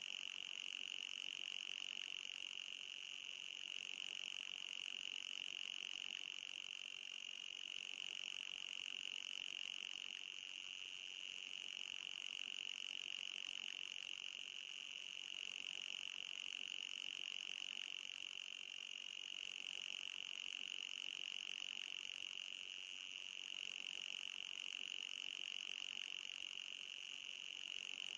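Electronic anti-mosquito repeller sound: a steady high-pitched buzzing tone with a fainter higher overtone, its level wavering slightly every few seconds.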